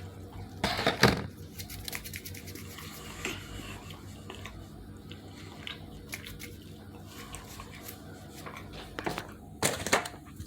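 Close-up eating sounds: pizza being chewed, with many small clicks and smacks and a louder brief rustle or bite about a second in.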